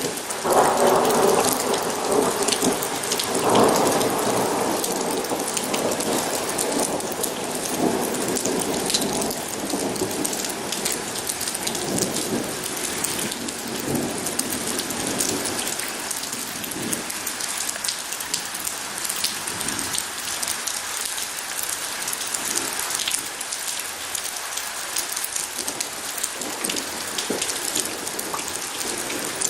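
Steady heavy rain pattering, with a roll of thunder starting just after the beginning, swelling again a few seconds in and rumbling away over the next ten seconds or so.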